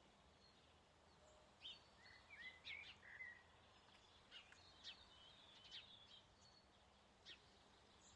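Faint songbirds chirping: a scatter of short, high chirps and whistles, busiest between about one and a half and six seconds in, over near silence.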